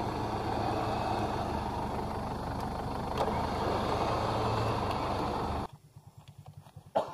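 Off-road 4x4's engine running steadily, then cutting off abruptly about two-thirds of the way through. It leaves a quiet background with faint clicks and one sharp knock near the end.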